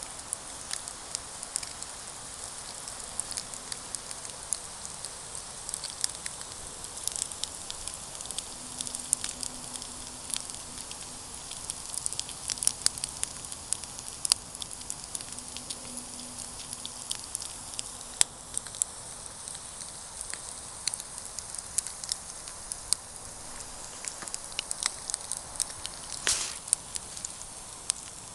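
Wood campfire crackling, with many sharp irregular pops and snaps over a steady hiss; one longer, louder crack comes about 26 seconds in.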